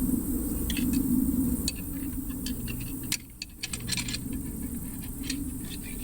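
Scattered light metallic clicks and rattles of tools and parts being handled during hydraulic steering-cylinder reassembly. A steady low rumble runs underneath, and it drops out briefly about three seconds in.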